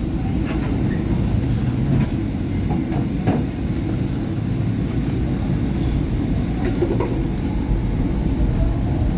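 SEPTA Market-Frankford Line train with its Kawasaki M-4 cars, running on the rails: a steady low rumble with a few scattered clicks.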